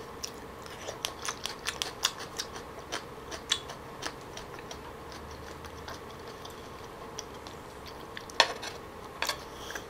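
Close-miked eating of raw soy-marinated salmon: many small wet mouth clicks from chewing, with a couple of sharper chopstick clicks against the bowl near the end.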